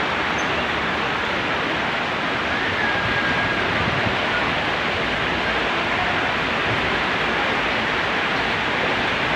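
Rain pouring down, a steady even hiss.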